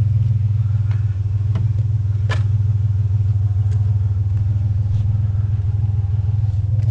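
A vehicle engine idling with a steady low hum, with a few light clicks and knocks scattered through it.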